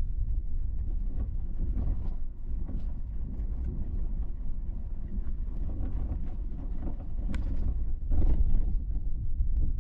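A car driving: a steady low rumble of road and engine noise, with a louder stretch of bumping about eight seconds in.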